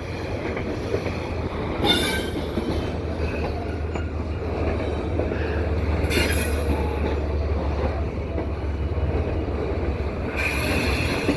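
GE ES44AC diesel locomotive, working as a mid-train distributed power unit, pushing hard with its engine under load: a deep steady rumble. Brief high wheel screeches come about two, six and ten seconds in.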